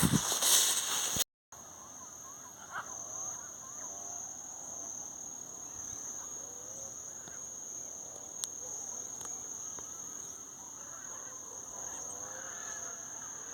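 Insects buzzing in one steady high-pitched drone, with faint bird calls scattered through it. A short louder noise at the start cuts off abruptly about a second in.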